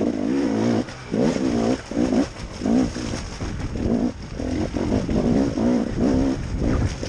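KTM enduro motorcycle engine revving in short repeated bursts, about two a second, its pitch rising and falling as the throttle is opened and closed.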